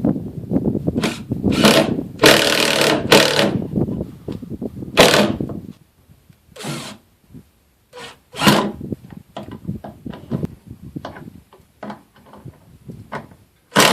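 Power drill running in a string of short bursts, driving screws to fasten a metal cover over woodpecker damage in wood siding.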